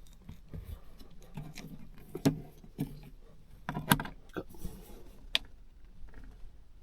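Hands handling gear in a cramped space: scattered small clicks and knocks at irregular intervals, with a sharper click near the middle and another a little later.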